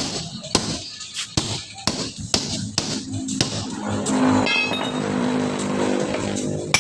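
Hammer blows on a truck wheel as the tire is worked off the rim: about six sharp strikes roughly half a second apart, stopping about halfway through.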